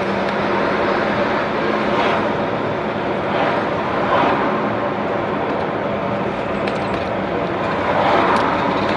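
Lorry on the move: a steady drone of engine and road noise with a faint low hum.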